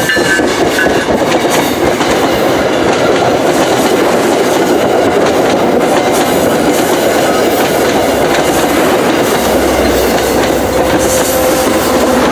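Commuter train passing close by at speed: steady, loud rumble of wheels on the rails with clickety-clack over the rail joints.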